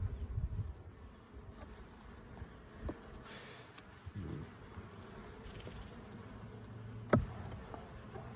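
Honeybees buzzing around an opened hive, a steady low hum. A sharp click a little after seven seconds in is the loudest sound, with a smaller knock near three seconds.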